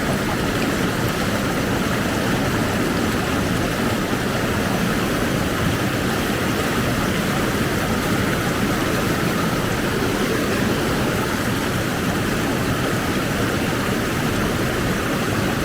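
River rapids: a steady, unbroken rush of whitewater.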